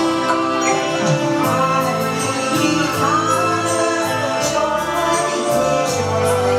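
Music: a Mandarin pop ballad played on a backing track with light, regular percussion, and a woman singing over it.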